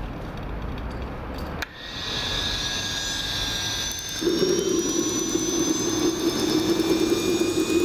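Small JB130 turbojet engine spinning up: after a short click, a whine climbs in pitch from about two seconds in. A little past four seconds, a louder, lower steady sound joins it and holds.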